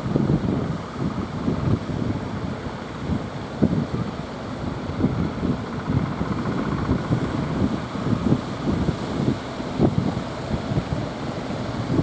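Strong wind buffeting the microphone in irregular gusts, a low rumbling with sharp thumps.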